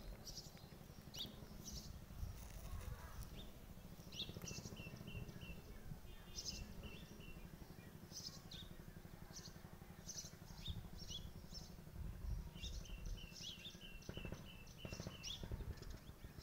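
Small birds chirping: scattered short high calls and two runs of quick repeated notes, about four a second, a few seconds in and again near the end, over a low steady rumble.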